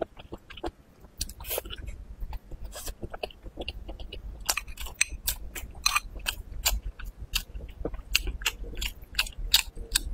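Close-miked chewing of a mouthful of stir-fried bamboo shoots with chillies: an irregular run of crisp, wet crunches and mouth clicks.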